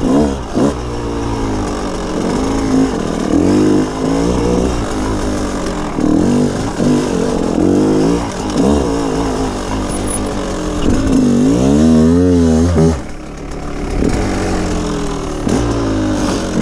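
Small off-road motorbike engine revving up and down as it is ridden along a rough forest trail, the pitch rising and falling every second or two. A longer rev builds about twelve seconds in and drops off suddenly.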